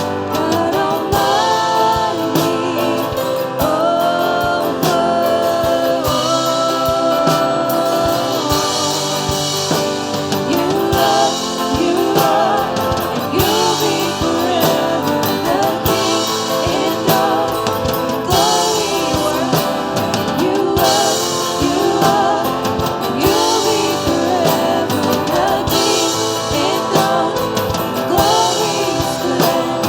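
Worship music: voices singing a melody over a band with a steady drum beat.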